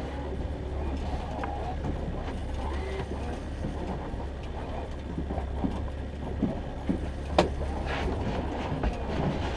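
Boat engine running steadily with a low hum, while a few sharp clicks and knocks come in the second half.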